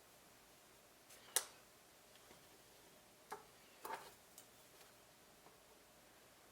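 A few scattered light clicks and taps of small tools being handled at a jewellery workbench. The sharpest comes about a second and a half in, with a small cluster about four seconds in.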